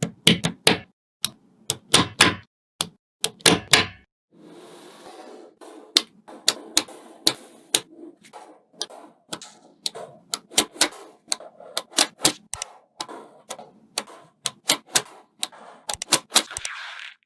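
Small coloured magnetic balls clicking sharply together one after another, at an irregular pace, as they are snapped into place. There is a soft rustling between some of the clicks.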